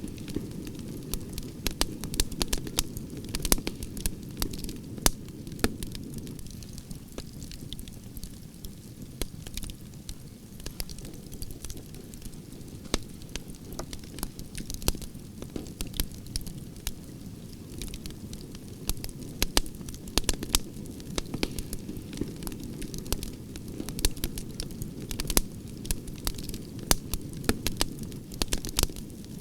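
Wood fire of burning branches crackling, with frequent sharp irregular pops and snaps over a steady low rush of flames.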